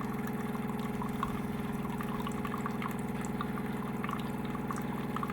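DeLonghi coffee machine dispensing coffee into a cup: a steady pump hum with a fast, even pulse, together with liquid pouring.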